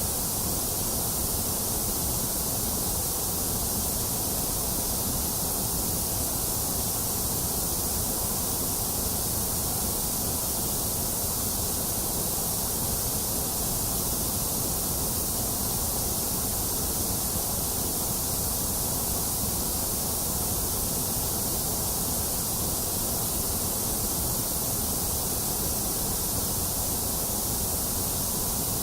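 Continuous synthetic white noise: an even, unchanging hiss at a steady level throughout.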